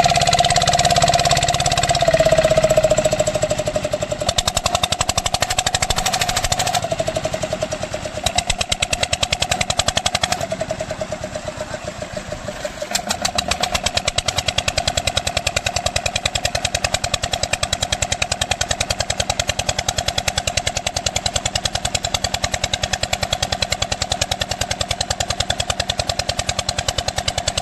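Lister-type diesel engine driving an irrigation water pump, running with a fast, even train of exhaust beats. It settles into a steady rhythm after some unevenness in the first dozen seconds.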